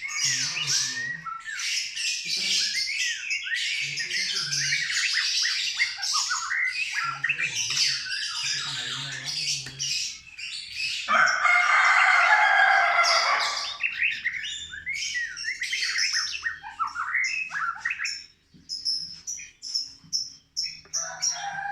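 White-rumped shama singing a long run of varied, rapid whistled and chattering phrases, with a harsh rasping stretch about eleven seconds in and a string of quick high notes near the end.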